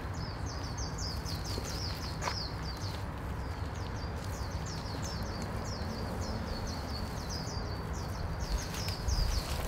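A small bird chirping rapidly, a long string of short high down-slurred notes, several a second, over a steady low outdoor rumble, with one faint knock about two seconds in.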